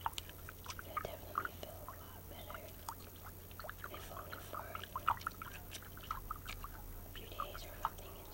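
Chewing gum close to the microphone: irregular wet smacks and clicks, several a second.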